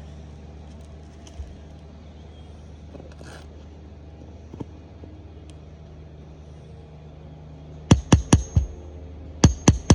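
Hammer driving nails in quick runs of sharp blows: about four fast strikes near the end, and another run starting just before it ends. Under it, a steady low hum.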